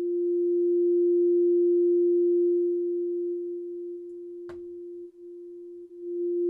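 Steady synthesizer sine-wave tone from two oscillators at the same pitch. It fades as the phase of one oscillator is shifted, nearly cancels out about five seconds in, then swells back. A brief click comes just before the dip.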